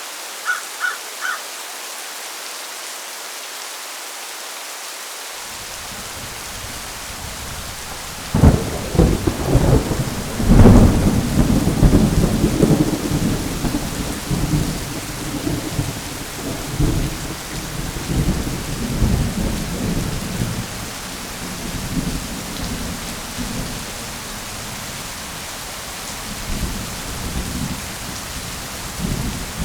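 Steady heavy rain, then thunder: a low rumble builds after about five seconds and breaks into a loud crack with a bigger clap about two seconds later, rolling on in rumbles that slowly die away. Three short high chirps sound near the start.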